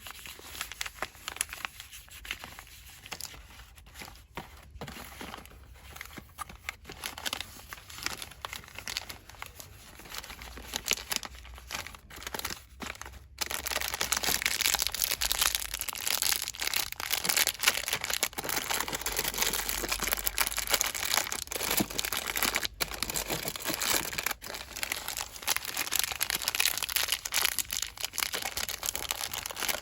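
Hands rapidly crinkling and rustling plastic cosmetics packaging in a dense crackle. It is softer at first and much louder from a little under halfway on.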